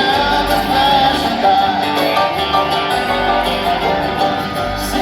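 Live bluegrass band playing an instrumental passage: acoustic guitar and other plucked strings over a steady band backing.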